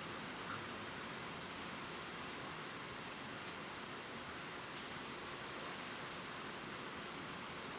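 Steady gentle rain falling on leaves, an even hiss with scattered faint drop ticks.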